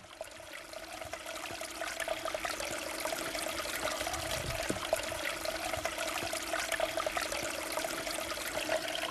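Running water fading in over the first two seconds, then flowing steadily, with a faint steady hum underneath.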